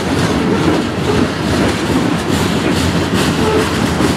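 Freight cars rolling past close by: a loud, steady rumble of steel wheels on the rails with clattering over the joints.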